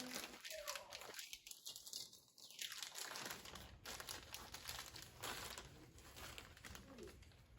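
Crinkling and rustling of something being handled, made of many small crackles, with a quieter stretch about two seconds in.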